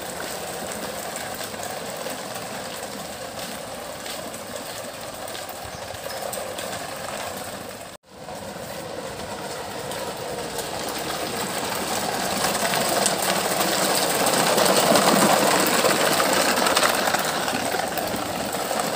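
Small electric motor of a toy truck whirring steadily. It cuts out abruptly about eight seconds in, then starts again and grows louder, peaking near the end.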